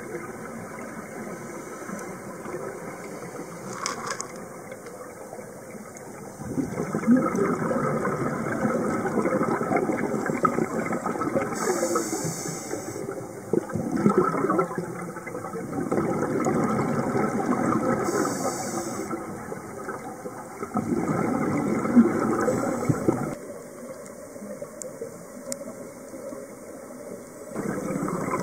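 Sea water rushing and sloshing in loud surges, each lasting several seconds, with quieter stretches between them.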